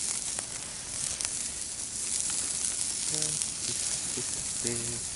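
Food sizzling on a grill over a wood fire in a fire pit: a steady hiss with scattered small crackles.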